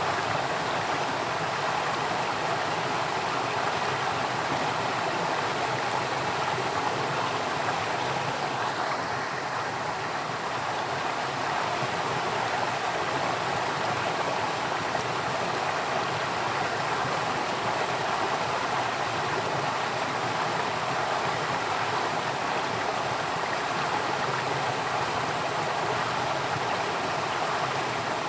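Steady rushing of flowing water, like a stream running over rocks, even and unbroken.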